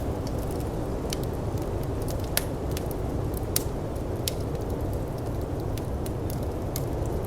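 Wood fire in a firepit crackling, with scattered sharp pops (the loudest about two and a half and three and a half seconds in), over the steady low rush of snowstorm wind.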